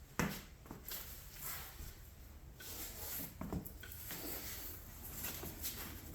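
Scattered light knocks and clicks of hands moving parts and tools, with a sharp click just after the start.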